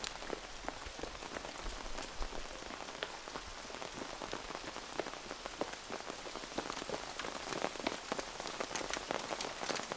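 Heavy rain mixed with tiny hailstones falling, a steady hiss dotted with many sharp ticks of hail that grow denser over the last few seconds.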